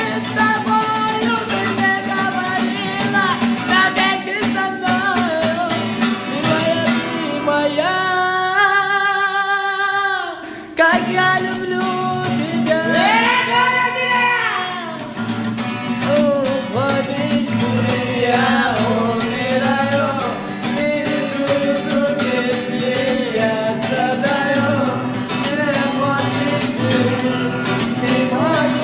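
A song with a sung vocal melody over guitar and a steady beat. About eight seconds in, the backing drops away under one long held note, and the full arrangement comes back in suddenly a little before eleven seconds.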